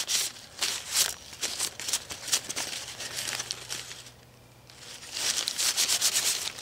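Hand wiping and scrubbing oily metal engine parts, a series of irregular rustling, crinkling rubbing strokes with a short lull about four seconds in.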